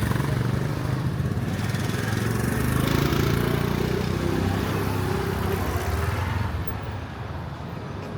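A motor vehicle's engine running close by as it passes in the street, loudest a few seconds in and fading away near the end.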